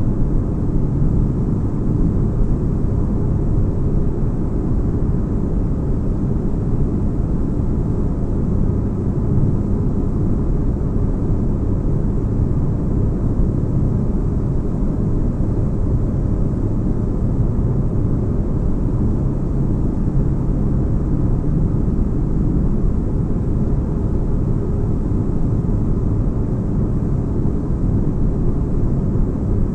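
Sci-fi spaceship interior ambience: a steady deep bass rumble, like a ship's engines droning, with faint low hum tones and no change.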